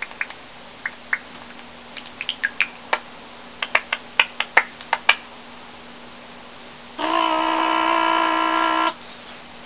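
Sped-up mouth noises in a chipmunk-like pitch: a run of quick clicks and short chirps, then a steady high hum held for about two seconds that cuts off suddenly.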